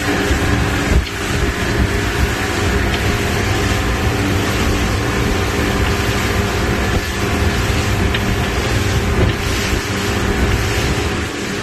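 Motor yacht underway: its engines give a steady drone, with water rushing past the hull and wind on the microphone.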